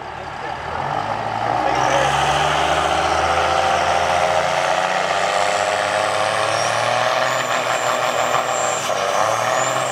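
Turbo-diesel drag pickups, a Cummins-powered Dodge Ram among them, running at full throttle down the drag strip. The sound swells about a second in and then holds loud, and a high steady whistle joins in about seven seconds in.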